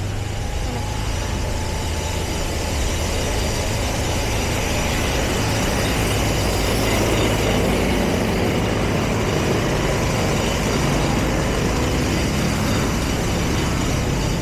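Motorbike engine running steadily while riding, with wind and road noise; it grows a little louder about three seconds in.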